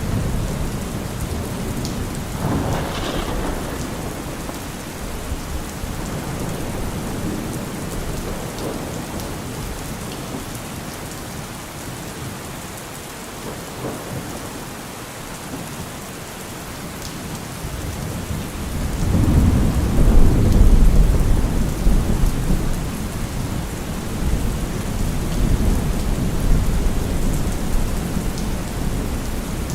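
Heavy rain drumming steadily on a car roof, with thunder rumbling: a short roll about two seconds in and a longer, louder roll starting a little past halfway and fading over several seconds.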